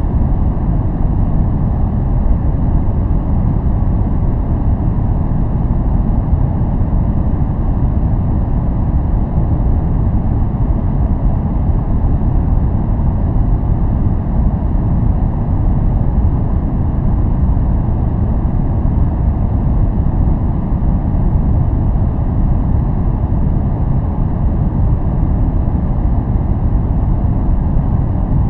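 Steady relaxation noise track, a deep, even rushing sound heavy in the bass with little high hiss, unchanging throughout.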